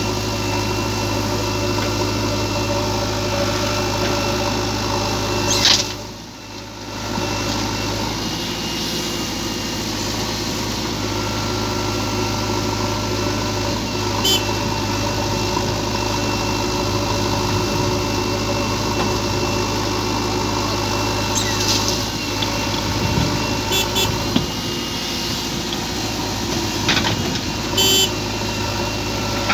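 Heavy diesel engine of earth-moving machinery running steadily under work, with a deep even hum. The sound briefly drops away about six seconds in, and a few short sharp high-pitched clicks or beeps come in the second half.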